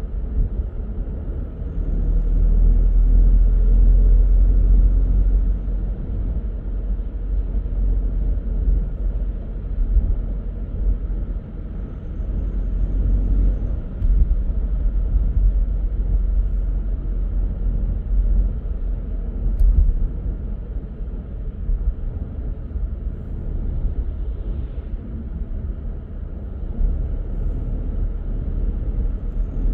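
Car driving on the road: steady low rumble of tyres and engine, swelling louder for a few seconds about two seconds in.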